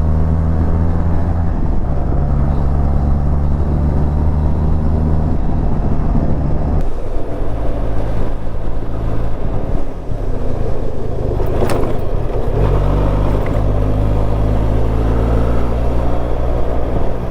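Benelli TRK 502's parallel-twin engine running under way, its note stepping up and down several times as the rider works the throttle and gears, with a steady rush of wind over it. One short click is heard about two-thirds of the way through.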